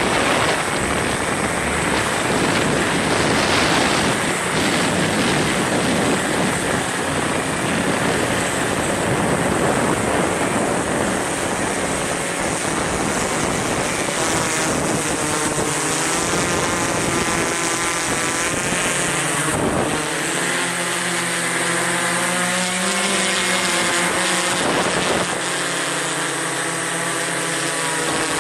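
Strong wind buffeting the microphone, a loud steady rush of noise. About halfway through, a droning motor-like hum whose pitch wavers up and down joins in under the wind.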